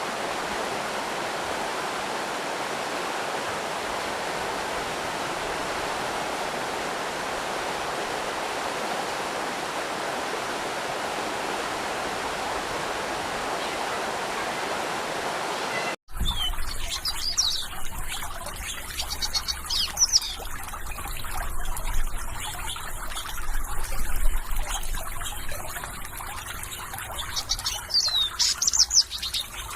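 Flowing water rushing steadily, then about sixteen seconds in an abrupt cut to a trickling stream with birds chirping in short, high, up-and-down calls.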